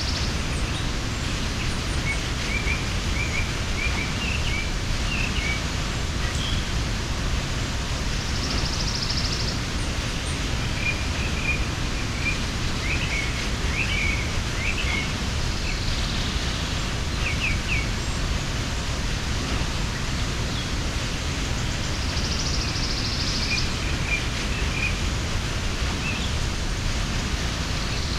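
Steady rushing of a mountain waterfall, an unbroken noise that is heaviest in the low range. Small birds chirp in short scattered phrases over it, and a higher buzzy trill comes back every six or seven seconds.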